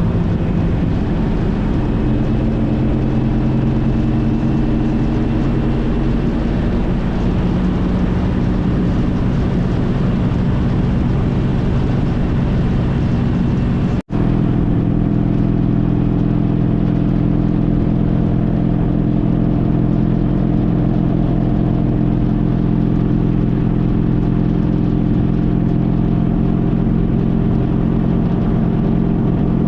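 Honda CTX1300's V4 engine running steadily while riding, mixed with wind and road noise. The sound cuts out for an instant about halfway through.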